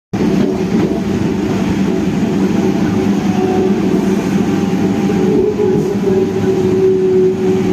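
A train in motion: steady running noise with a low hum.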